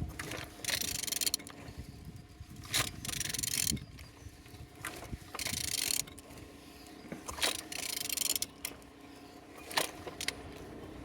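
Renault R9M 1.6 dCi diesel engine being turned over by hand with a ratchet wrench: repeated strokes of ratchet clicking every second or two, with the engine turning freely.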